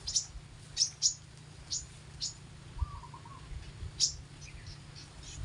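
Small songbirds giving short, sharp, high chirps, one or two a second at first and sparser later, with a faint warbling note near the middle.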